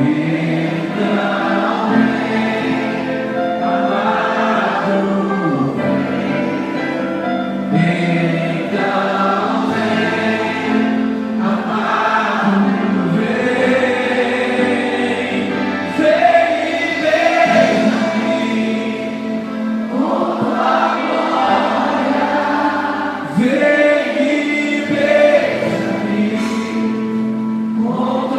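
Slow Christian worship song: a group of voices singing over a sustained instrumental backing.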